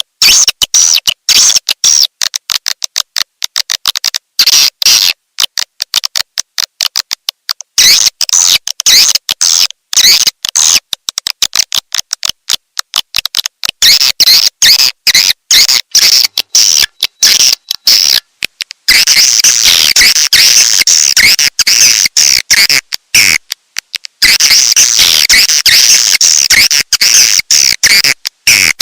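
Swiftlet lure call: a recording of swiftlets' rapid high-pitched twittering chirps, used to attract swiftlets to a nesting house. It comes in short choppy stretches broken by sudden cut-offs and clicks, and becomes denser and unbroken in the second half.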